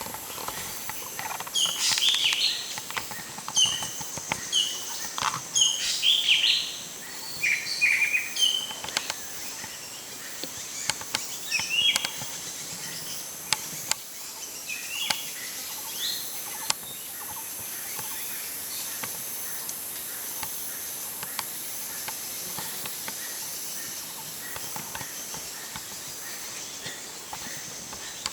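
Birds chirping in forest: a quick run of short high chirps in the first several seconds, a few scattered calls after that, then they stop. A steady high insect hum runs underneath.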